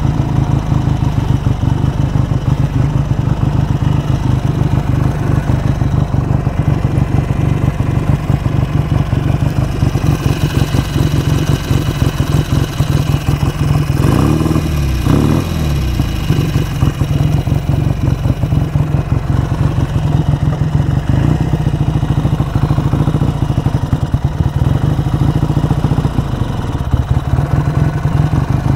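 BSA A10 Super Rocket 650 cc parallel-twin engine idling unevenly, in the state its rider calls 'not happy' after his carburettor adjustments. About halfway through, engine speed briefly swings up and back down as a carburettor adjusting screw is turned.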